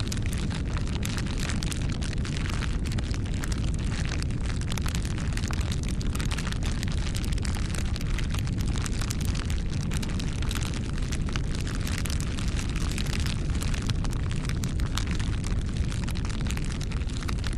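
Wood fire burning: a steady low noise of the flames with dense, irregular crackling and popping of the burning wood.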